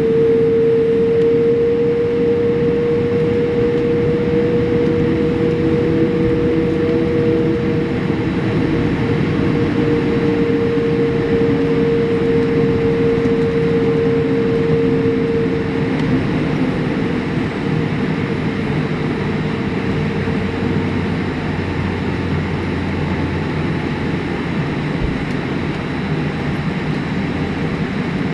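Steady hum and rumble from inside a vehicle, with a steady whining tone over it that weakens and sags slightly in pitch after about the middle, and a fainter lower tone gliding down.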